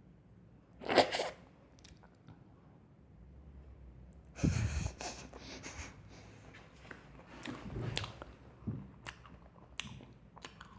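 Close-up eating noises: crunchy bites and chewing of a microwaved, toasted marshmallow, with scattered mouth and handling clicks. A short loud burst comes about a second in and a longer noisy one about four and a half seconds in.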